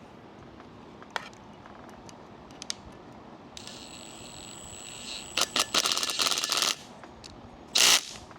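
Metal parts being handled during hand reassembly of a Jake brake: a few sharp clicks, then a busy run of clicking and clattering, and a short loud burst of noise near the end.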